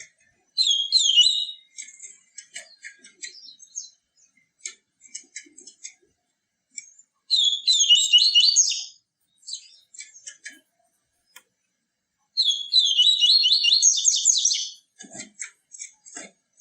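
A papa-capim (seedeater) singing three short bursts of fast, high twittering song, with scattered single chip notes between the bursts. Two soft low knocks come near the end.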